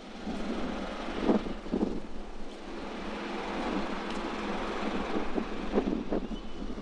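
Wind buffeting the microphone over a steady outdoor rush, with several stronger gusts about a second in and again near the end.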